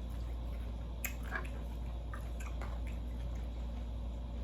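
A person chewing food, a fish and cabbage meal, with small wet clicks of the mouth, over a steady low hum.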